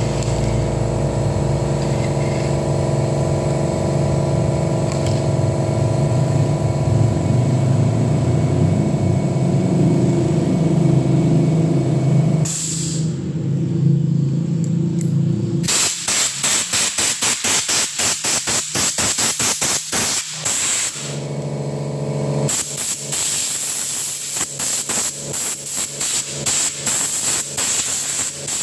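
An air compressor's motor runs with a steady hum while a blow gun hisses out compressed air. About halfway through the hum drops away and the air comes in short, rapid spurts. Near the end the motor hum returns under the spurts.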